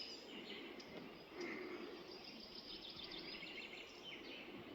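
Quiet woodland ambience with faint, scattered birdsong chirping in the distance.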